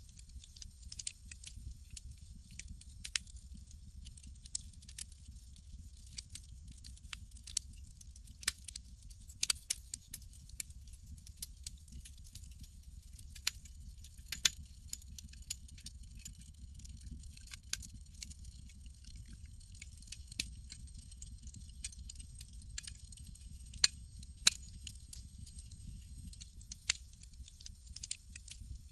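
Campfire crackling: irregular sharp pops and snaps, a few much louder than the rest, over a low steady rumble.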